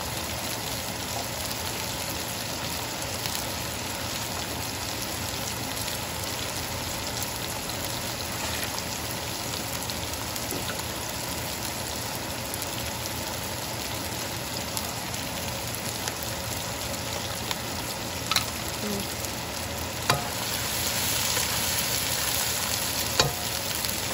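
Chopped onions frying in oil in a wok, a steady sizzle. The sizzle gets louder near the end, with a few sharp taps.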